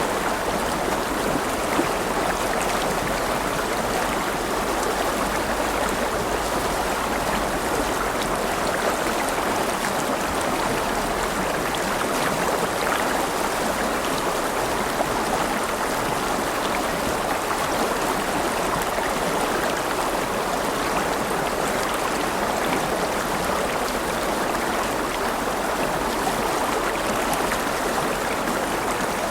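A river flowing and babbling over stones, a steady rushing of water.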